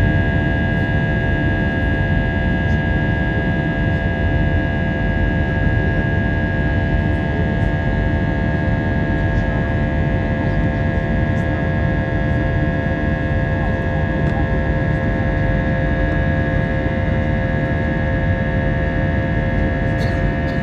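Airbus A320-family jet airliner engines running steadily: a low rumble with several high, steady whining tones over it, neither rising nor falling.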